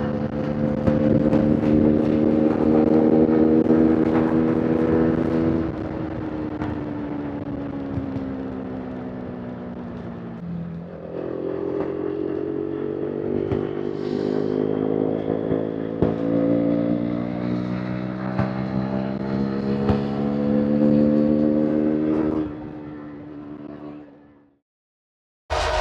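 KTM RC 390's single-cylinder engine and exhaust under way: the pitch climbs slowly, then drops about six seconds in and falls as the bike slows. It picks up again around eleven seconds and climbs steadily before falling away and cutting to silence shortly before the end.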